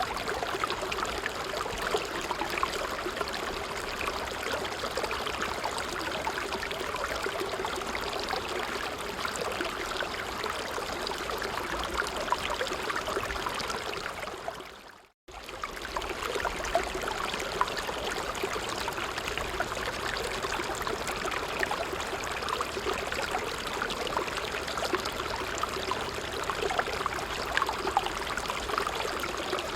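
Stream of water running and babbling over stones, steady with small splashes and trickles. About halfway through it fades out for a moment and comes straight back.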